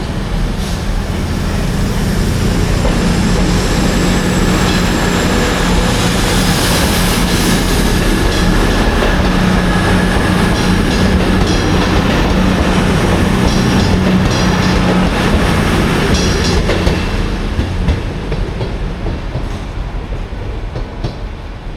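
Train running past at speed, its wheels clacking over rail joints above a steady low drone; the sound fades away over the last few seconds.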